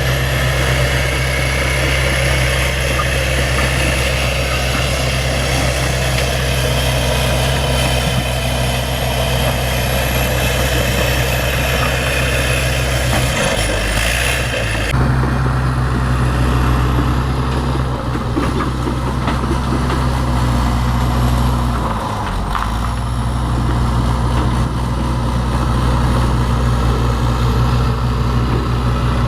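Bulldozer's heavy diesel engine running steadily, briefly dropping in pitch about halfway through and again about three-quarters through, as if the engine takes load.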